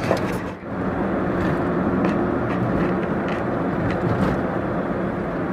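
Steady vehicle running noise, even and low, with a few faint ticks and a brief drop about half a second in.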